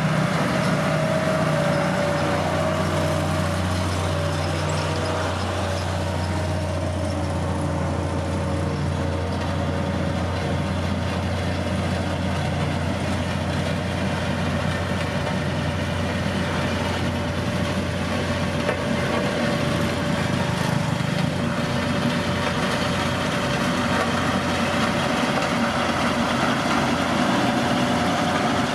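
Heavy diesel construction machinery running steadily, a continuous low engine hum with a whine that holds its pitch.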